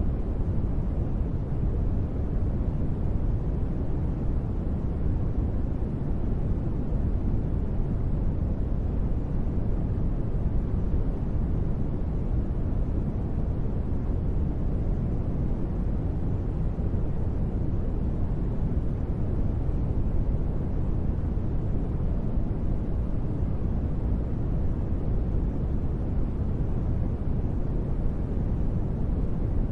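Steady, unchanging noise of a deep-space ambience track. It is a low, even rumble-like rush that is heavy in the bass and has little hiss, with no tones or events.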